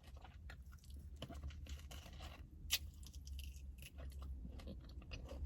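Chewing and crunching of crispy fried chicken wings, with scattered faint clicks over a low, steady rumble.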